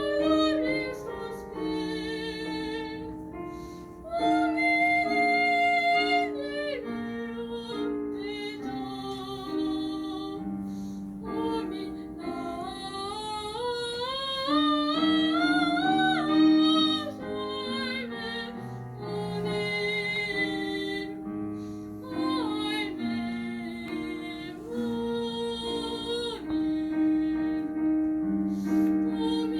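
Soprano singing an opera aria in full classical voice with vibrato, over piano accompaniment. About halfway through her voice climbs in a long rising line to the loudest, highest held note.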